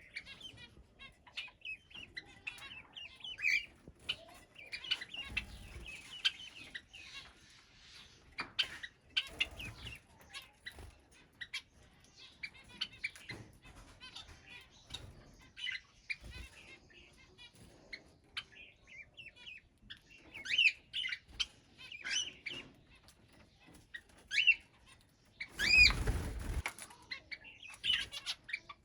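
Mixed aviary birds chirping and whistling on and off, with wing flaps. Near the end, a louder call comes over a brief rush of flapping.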